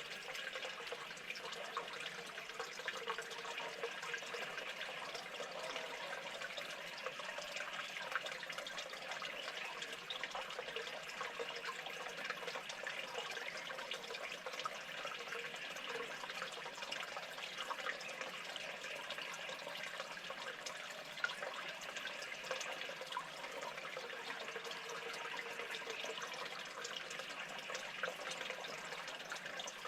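Steady running water, trickling without a break.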